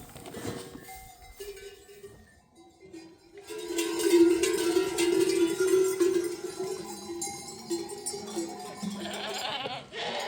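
Livestock bells ringing on a flock of sheep and goats, with a bleat near the end.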